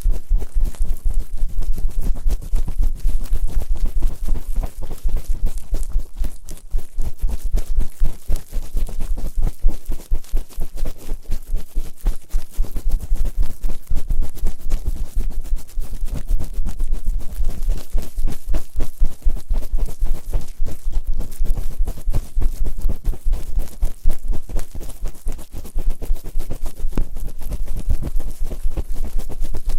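Fast, continuous rubbing and scratching against the ears of a binaural microphone: close-up ear-cleaning ASMR sounds with a heavy low rumble.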